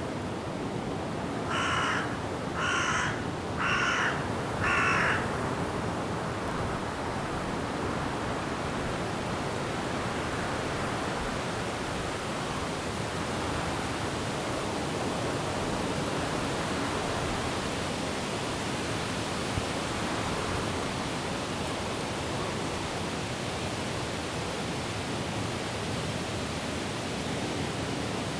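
A crow caws four times, about a second apart, early in the stretch, over the steady hiss of wind and rain in the trees.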